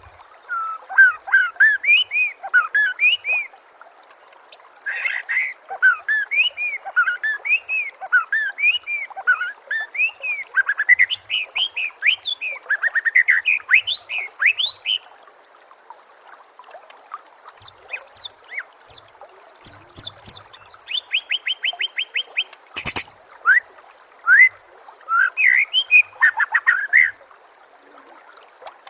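White-rumped shama singing a long, varied song of loud whistled phrases and rapid trills, broken by a few short pauses, over a faint steady murmur of running water. One sharp click sounds near the end.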